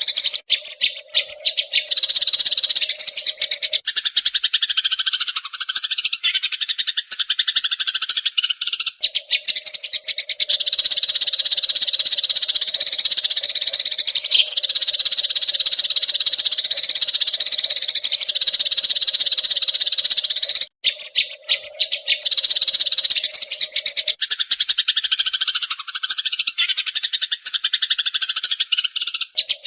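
Eurasian tree sparrows chirping and chattering in a dense, unbroken stream of rapid high chirps. A brief gap comes about 21 seconds in, after which the same passage seems to start over.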